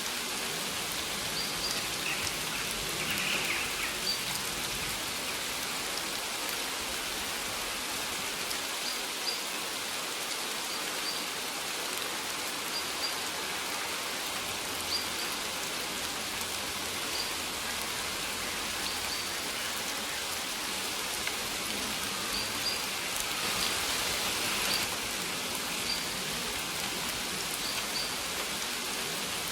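Steady rain falling, with faint short high chirps of birds now and then.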